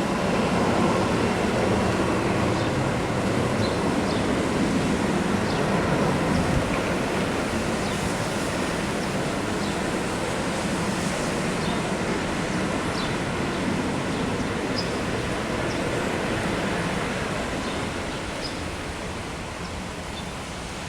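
Jet airliner landing and rolling out on the runway, its engine roar a dense rush that swells at the start and slowly dies away.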